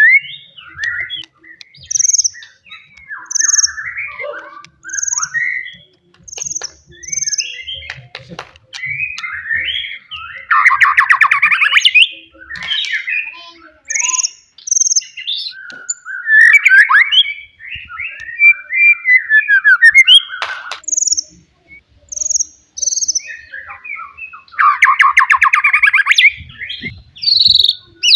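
Wild white-rumped shama (murai batu) singing a loud, varied song: whistled phrases and sharp high notes mixed with rapid buzzy trills, each phrase separated by a short pause.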